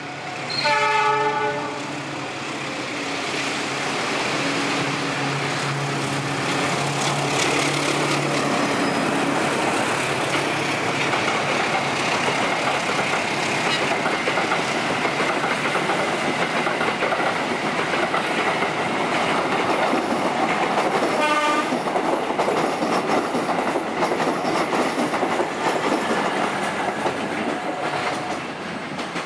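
A diesel locomotive's horn sounds briefly about a second in. It is followed by the low drone of the engine and the steady rumble and clatter of train wheels rolling on the rails, with another short horn blast about three-quarters of the way through.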